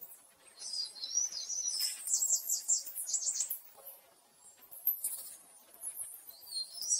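Small songbirds chirping: a warbling phrase about a second in, then fast trills of quickly repeated notes, and more chirping near the end.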